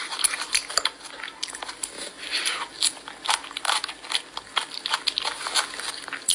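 A child chewing and biting food close to the microphone: irregular crunches and wet mouth clicks.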